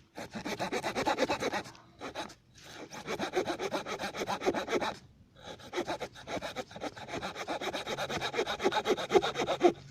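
The small folding wood saw of a Victorinox Ranger Wood 55 pocket knife cutting through a small log in rapid short back-and-forth strokes. The sawing comes in three bouts with brief pauses between them.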